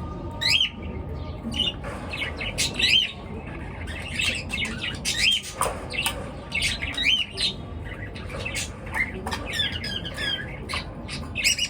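Pet birds chirping and squawking: a busy stream of short, sharply curving calls, several birds calling over one another with hardly a break.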